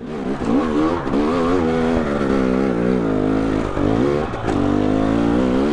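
Two-stroke dirt bike engine running under load, its pitch rising and falling every second or so as the throttle is opened and closed.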